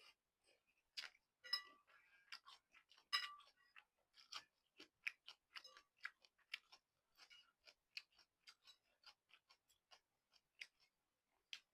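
Close-up mouth sounds of someone eating instant noodles with stewed beef: a run of short, quiet wet clicks and smacks from chewing, with a couple of louder, briefly ringing clicks about one and a half and three seconds in.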